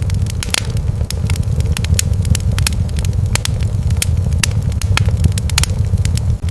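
Wood fire in a fireplace crackling: irregular sharp pops several times a second over a steady low rumble.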